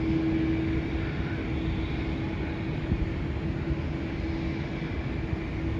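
Distant rumble of a Boeing 737 jet airliner landing, heard over a constant low hum.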